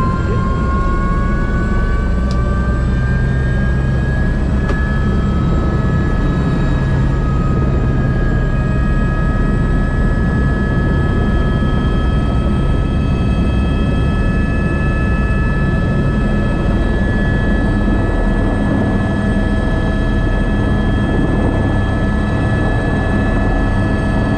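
Airbus AS350B3 (H125) helicopter running in flight: its turbine and gearbox whine over the low rotor and engine rumble. The whine rises slightly in pitch over the first few seconds, then holds steady.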